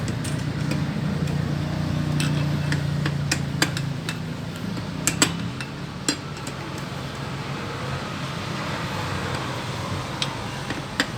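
Sharp metallic clicks and taps of tools on metal parts, scattered irregularly, over the steady hum of a vehicle engine running that fades after about four seconds.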